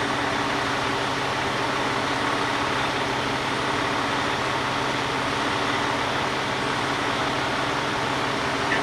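A vehicle engine running steadily, with a constant low hum and no changes.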